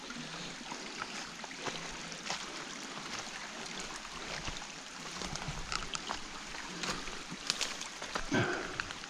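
Running water from a stream swollen by recent rain, a steady rushing, with scattered light clicks over it and a short low falling sound near the end.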